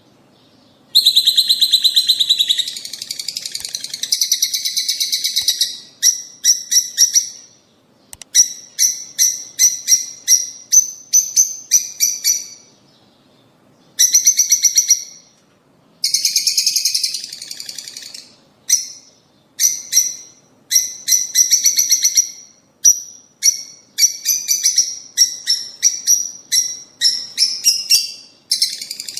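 Lovebirds chirping: rapid, high-pitched trains of chirps in bursts of a few seconds, broken by short pauses.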